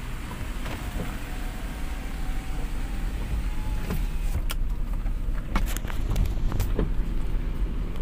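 Road vehicle running in slow traffic, a steady low engine and road rumble. A faint thin whine runs through the first half, and several sharp clicks and knocks come in the second half.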